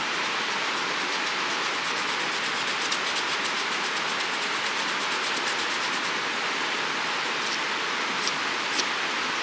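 Steady rush of a flowing creek, with faint small clicks a couple of seconds in and a few light ticks near the end.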